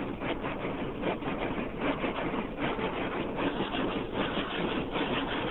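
Automatic car wash running, heard from inside the car: a steady rush of water spray and machinery on the car body, with many uneven knocks and spatters.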